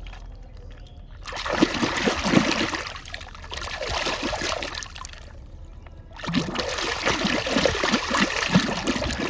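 Water splashing and trickling as a muddy toy vehicle is washed by hand. There are two spells of splashing, starting about a second in, with a short lull near the middle.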